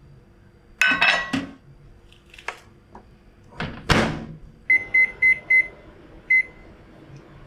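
Microwave oven: a clatter and a loud thunk of the door being shut, then four quick keypad beeps and a fifth beep a moment later.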